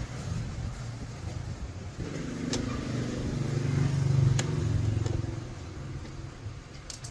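A motor vehicle engine running with a low hum that swells in loudness around the middle and then eases off, with a few sharp clicks.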